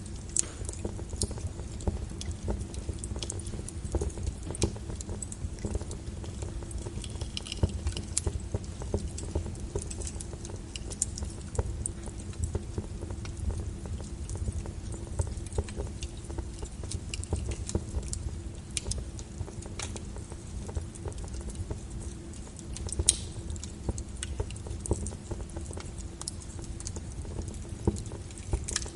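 Burning wood fire crackling, with constant irregular small snaps and pops over a low rumble. A few pops stand out louder, the loudest about three-quarters of the way through.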